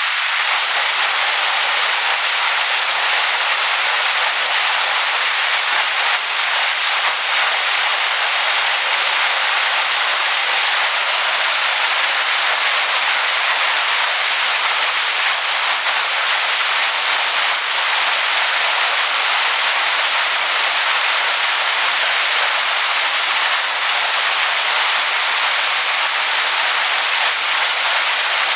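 Waterfall pouring onto rocks: a loud, steady rush of water, mostly high and hissy with little low rumble, unchanging throughout.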